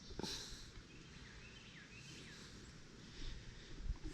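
Faint outdoor background noise with a few soft bird chirps, short hooked calls in the middle, and a brief rustle just after the start.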